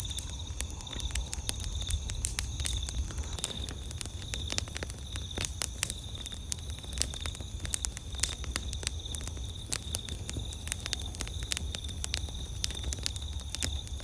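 Wood campfire crackling: a dense, irregular run of sharp pops and snaps over a low steady rumble, with a faint steady high-pitched pulsing tone in the background.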